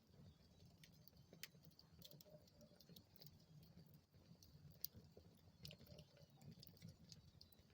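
Wood fire in a fireplace crackling faintly: scattered small pops and snaps over a low steady rumble, with the sharpest pop about five seconds in.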